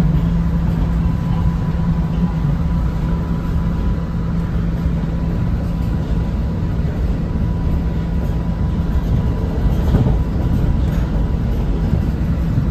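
Running noise of a Macau Light Rapid Transit train, a rubber-tyred automated people mover, travelling along its elevated guideway: a steady low rumble with a faint steady whine that fades out near the end, and a brief knock about ten seconds in.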